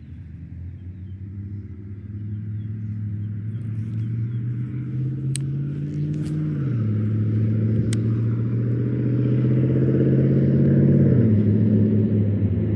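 A motor vehicle's engine accelerating and growing steadily louder as it approaches. The pitch climbs, drops sharply about six and a half seconds in and again about eleven seconds in, then climbs again, like shifts up through the gears.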